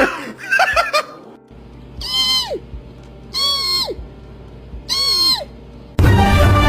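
A cat meowing three times, about a second and a half apart, each call held and then dropping sharply in pitch at the end. Loud music starts near the end.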